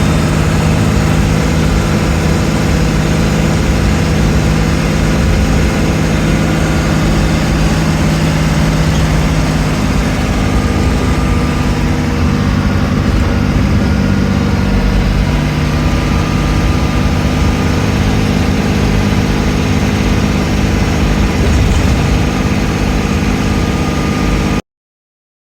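Vehicle engine running steadily with a constant drone, cutting off abruptly to silence near the end.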